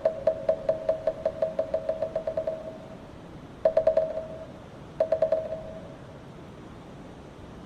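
A moktak (Korean Buddhist wooden fish) struck in a rapid roll that speeds up and fades away, then two short, quick flurries of strokes a little over a second apart. After that only a steady hiss remains.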